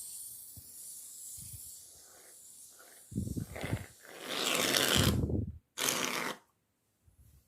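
Shaving foam hissing out of an aerosol can for about three seconds, then loud sticky squelching and crackling as clay slime is worked with the foam, with a shorter squish just after six seconds.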